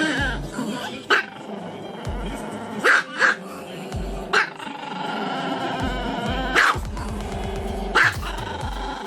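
A dog giving about six short barks at irregular intervals, over background music with a steady bass beat.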